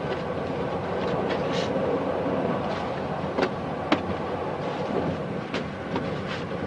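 Steady running noise of a moving passenger train heard inside a sleeping-car compartment, with a few sharp clicks and knocks.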